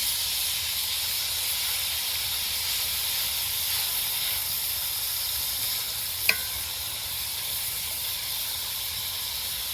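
Food sizzling as it fries in a pan, a steady hiss, with one sharp clink about six seconds in.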